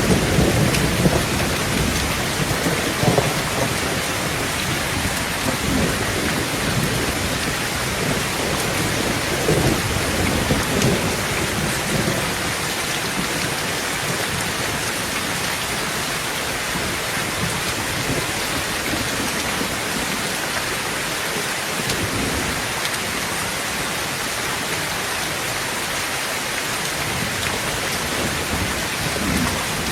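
Heavy rain falling steadily on a tin tent roof. Thunder rumbles through the first half and then dies away, leaving the rain alone.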